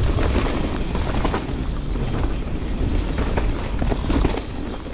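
Mountain bike descending a trail at speed: wind buffeting the microphone over a low rumble of tyres rolling on dirt, with frequent short knocks and rattles from the bike.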